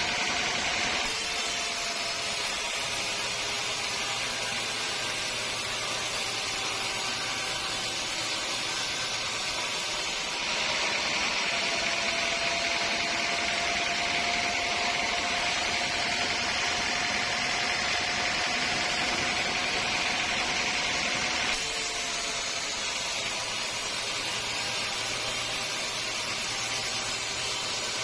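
Band sawmill machinery running, a steady mechanical drone with hiss. The sound changes abruptly about a second in, then again around ten and twenty-two seconds; the middle stretch carries a louder hiss and a steady, slightly rising whine, as of the saw cutting.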